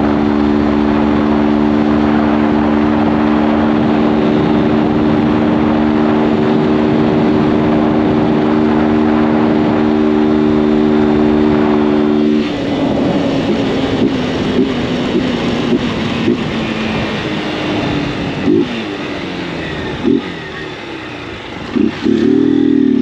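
Honda CG 160 Fan's single-cylinder four-stroke engine held at steady revs under way for about twelve seconds. It then drops abruptly as the throttle is eased off, followed by several quick throttle blips that rise and fall, with a louder pair near the end.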